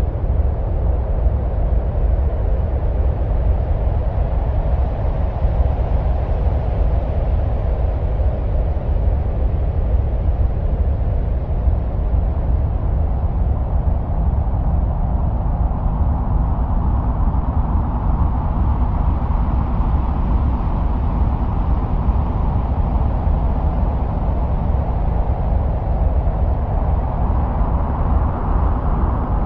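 Ambient 'sounds of Mars' soundscape of wind-like noise: a steady deep rumble under a hiss that slowly swells and shifts higher, peaking around the middle and again near the end.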